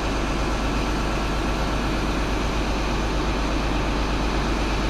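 Steady, loud rumble and noise of a running vehicle, with a deep low hum throughout.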